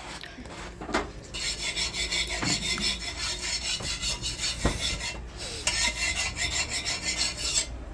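Steady rasping, rubbing scrape of roti-making utensils, in two long spells with a short break about five seconds in.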